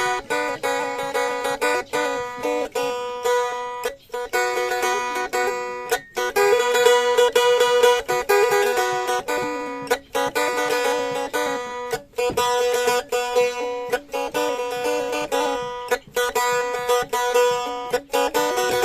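Blaan faglung, a two-stringed lute, plucked in a fast repeating melody over a steady drone note, with short breaks every few seconds.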